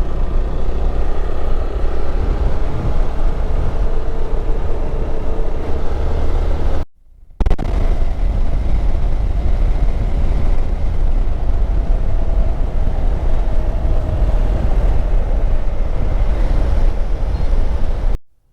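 Riding on a Hero XPulse motorcycle: heavy wind rush and buffeting on the camera microphone, with the single-cylinder engine's drone running steadily underneath. The sound cuts out briefly about seven seconds in.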